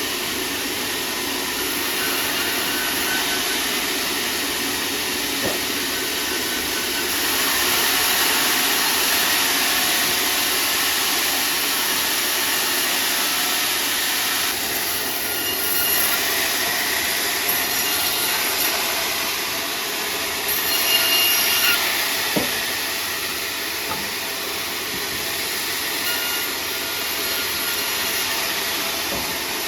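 Sawmill saw running through sengon wood, a steady, noisy cut that gets louder about seven seconds in.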